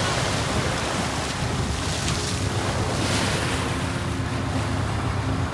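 Wind buffeting the microphone over the steady rush of sea water churned by a moving cruise ship, with a low rumble underneath.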